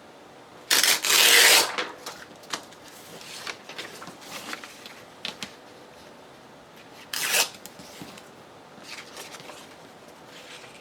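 Copy paper being torn by hand: a loud rasping tear about a second long shortly after the start, a shorter tear about seven seconds in, and light paper rustling between.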